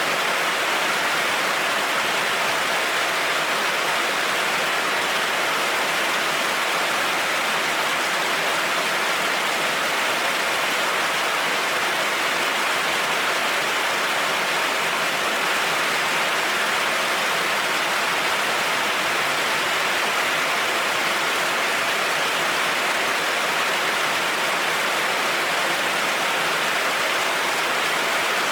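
Heavy rain falling steadily on a road, an even, unbroken hiss with no thunder.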